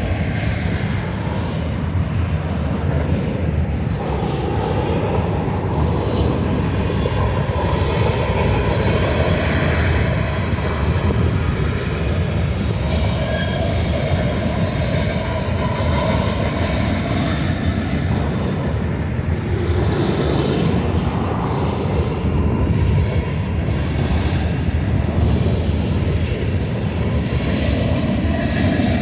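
Freight train rolling past on the mainline: a loud, steady rumble of cars on the rails that goes on without a break.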